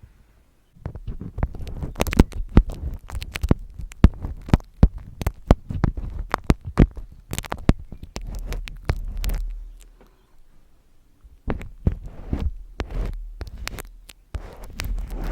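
Close-miked ASMR handling sounds: a fast, irregular run of sharp taps and clicks over low thuds, starting about a second in, pausing for about a second and a half near the middle of the stretch, then starting again.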